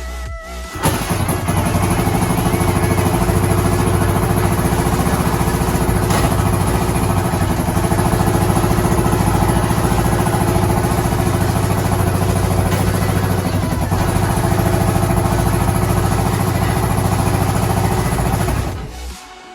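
Suzuki DR650 single-cylinder four-stroke engine idling steadily. It comes in abruptly about a second in and fades out near the end.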